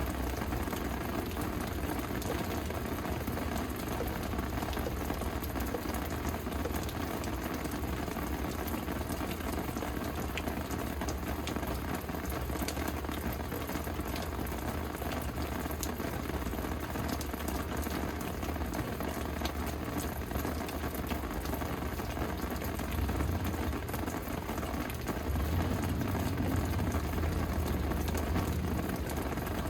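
Steady rain falling and pattering on surfaces, a dense even hiss of drops. A low rumble runs underneath and grows somewhat louder for a few seconds near the end.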